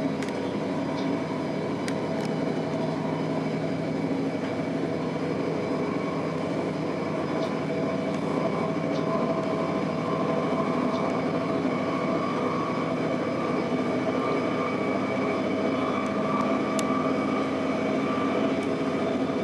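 Inside a Stadler GTW diesel multiple unit running along the line: a steady hum from the diesel drive with the rumble of wheels on the rails and a few faint clicks.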